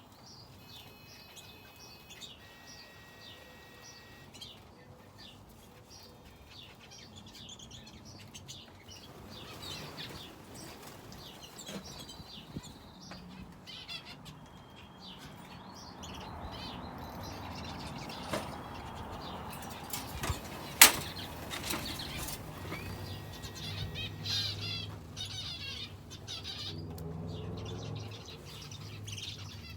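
Aviary finches and a canary chirping and calling over and over, with wing flutters among them. A low hum comes in about halfway through, and a single sharp click about two-thirds of the way through is the loudest sound.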